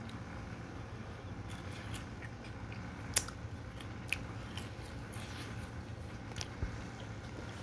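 Biting and chewing dry, crisp seasoned shoestring fries: a few short sharp crunches, the loudest about three seconds in, over a low steady room hum.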